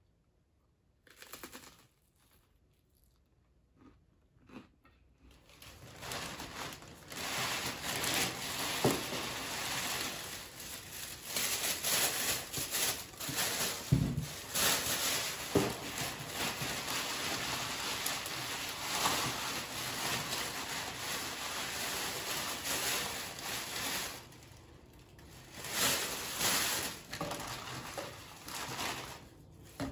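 Packaging crinkling and rustling as newly bought items are handled and unwrapped, with one sharp knock about halfway through.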